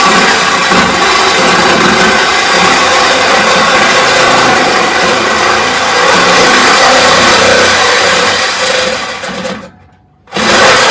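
Corded reciprocating saw (sawzall) cutting through a truck's metal exhaust pipe, running loud and steady; near the end it stops for about half a second, then starts cutting again.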